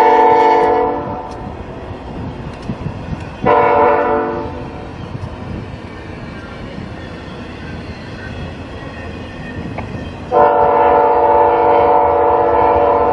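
Diesel locomotive's multi-chime air horn, first a blast that ends about a second in, then a short blast, then a long one near the end, the pattern of a grade-crossing signal. The train's steady rumble runs between the blasts.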